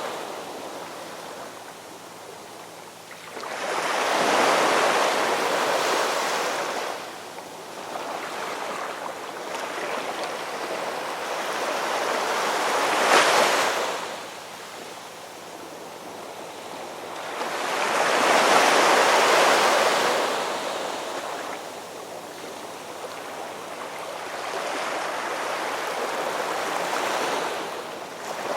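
Ocean surf: waves rolling in and washing back in slow swells every several seconds. The sharpest crest comes about thirteen seconds in, and a broad one around nineteen seconds.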